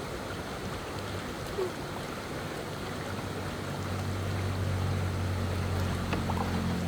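Fast-flowing stream water rushing steadily. A low steady hum joins about four seconds in.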